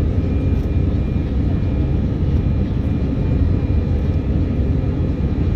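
Steady low drone of an Airbus A319's jet engines and airflow heard from inside the passenger cabin, with a faint steady whine above it.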